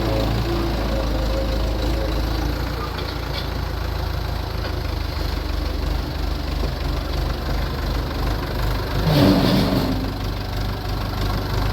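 Tractor engine idling steadily, with one louder swelling sound about nine seconds in.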